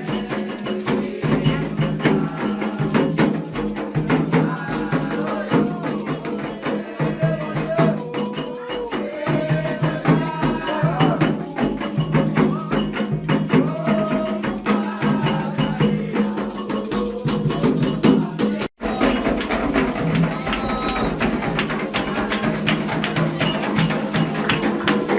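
Candomblé ritual music: hand drums and a struck bell or wood block beating a steady rhythm under singing voices. The sound cuts out for an instant about three-quarters of the way through.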